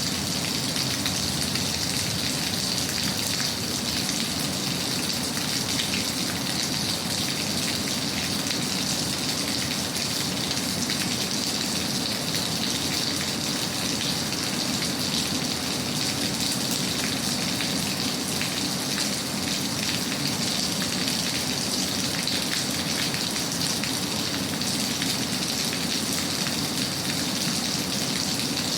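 Steady rain falling: a dense, even patter that holds unchanged throughout.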